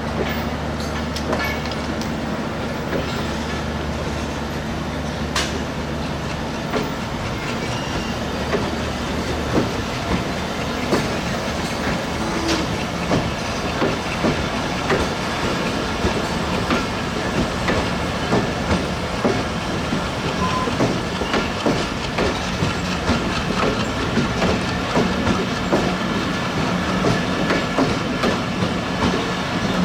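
Bangladesh Railway diesel-hauled intercity express train running: a low diesel engine drone fades out about nine seconds in. From then on the coaches' wheels keep up a steady clickety-clack over the rail joints, about one to two knocks a second.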